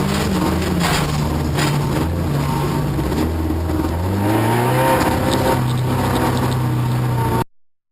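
Offroad racing car's engine running hard, its pitch stepping up about four seconds in. The sound cuts off suddenly near the end.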